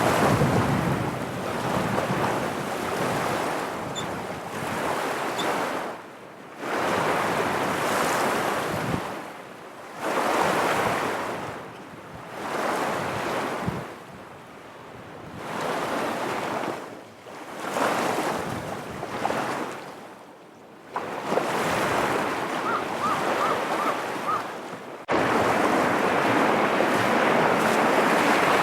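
Lake water washing on the shore, with wind blowing over the microphone. The sound changes abruptly every few seconds, louder and softer, and cuts sharply about 25 seconds in.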